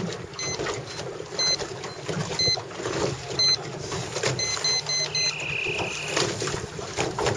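Electronic race-timer beeping once a second, then four quick beeps about five seconds in and a single one-second tone, counting down to the four-minute mark of a sailing start sequence. Wind and water noise run underneath.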